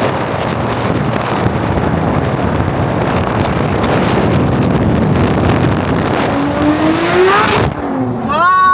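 A performance car's engine accelerating hard over loud wind and road noise. Its pitch climbs for about a second and a half, then cuts off sharply near the end.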